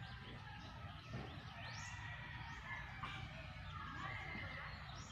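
Birds chirping in the background, a few short rising calls and a held note, over a low steady outdoor hum.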